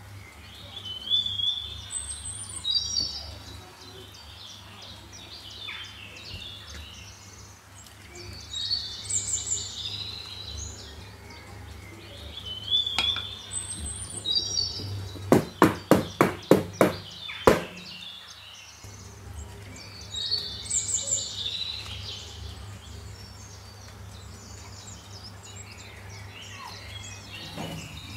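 Birds chirping in short repeated phrases every few seconds over a low steady hum. About halfway through comes a quick run of about seven sharp knocks in two seconds.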